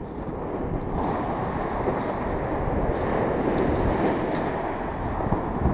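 Sea waves surging and breaking on the shore in rough water, with wind buffeting the microphone.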